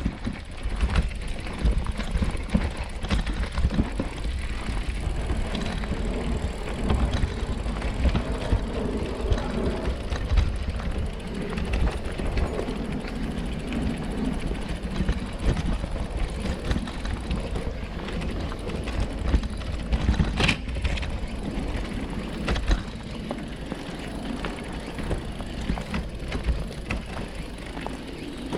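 Brompton folding bicycle being ridden: a steady low rumble with frequent small knocks and rattles, and one sharp click about two-thirds of the way through.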